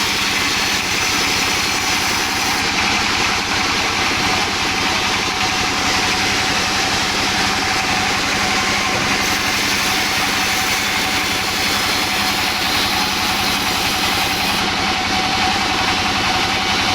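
Sawmill machinery running steadily: a continuous engine-like hum with a faint steady whine that holds an even level throughout.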